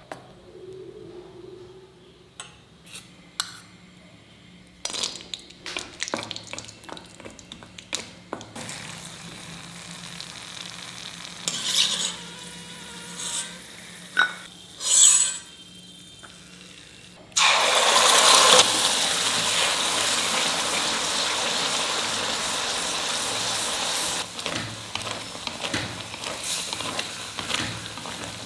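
A spoon stirs a thick coconut-jaggery paste in a steel bowl, with light clinks and scrapes. Then cashews sizzle in hot oil in a steel kadai, with a few louder spells. About two-thirds of the way in a loud, dense sizzle starts suddenly, which fits wet paste going into the hot oil, and it goes on as a spatula stirs and scrapes the paste around the pan.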